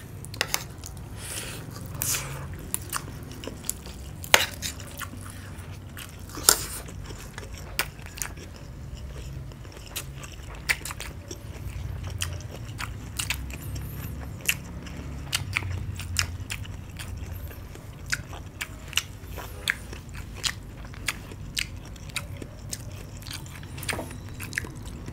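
Close-miked eating: chewing and biting on fried rice and a crisp fried piece, with many short sharp crunches and clicks scattered throughout.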